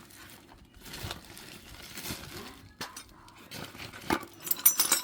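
Light knocks and clinks of hard objects being handled, then a louder burst of sharp clinking and jingling near the end, like small metal parts clattering together.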